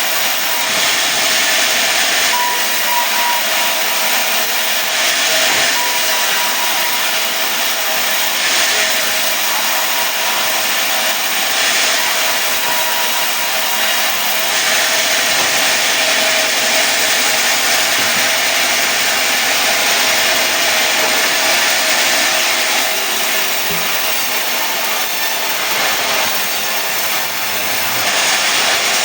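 Sawmill saw running steadily through a mahogany log, a continuous loud, hissy cutting noise with a faint steady whine from the machine.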